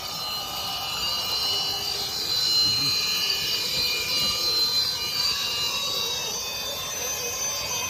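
Small electric motor of an RC off-road truck whining steadily at a high pitch, several tones together holding nearly level throughout.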